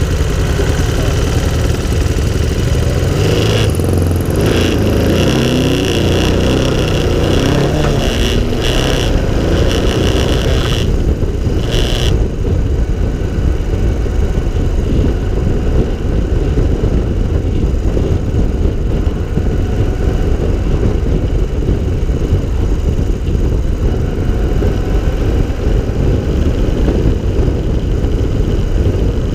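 Three-wheeler cyclecar's air-cooled engine, recorded onboard, ticking over at first, then revving as it pulls away, and then running steadily at road speed with wind noise. A high whine sounds from a few seconds in and stops sharply about twelve seconds in.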